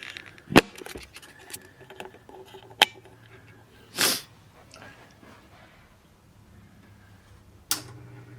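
Handling noises: two sharp clicks, one just after the start and one near three seconds, a short breathy hiss about four seconds in, another just before the end, and a faint low hum in the background from about three seconds in.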